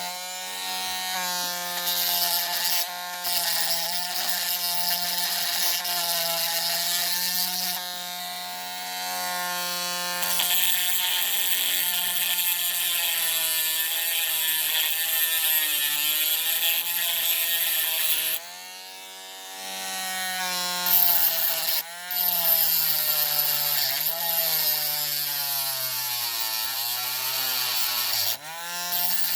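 Small electric rotary tool running and cutting into the die-cast metal around a toy truck's axle, its motor whine wavering and sagging in pitch as it bites, with a gritty hiss. It eases off briefly about two-thirds through, then bites again.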